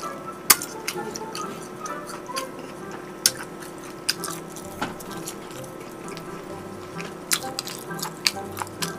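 Mouth sounds of eating: wet chewing with scattered sharp smacking clicks, more frequent near the end, over faint background music.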